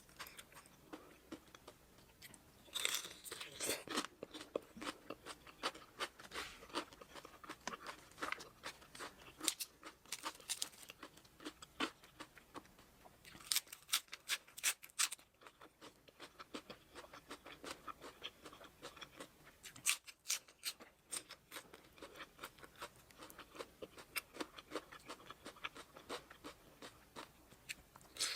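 Close-miked chewing of crunchy food: a steady run of small crackling clicks, with louder bursts of crunching about three seconds in, around fourteen seconds in and again at twenty seconds.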